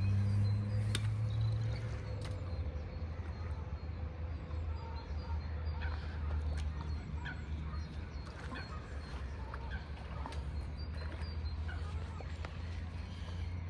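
Birds chirping over a steady low hum, with a few scattered clicks.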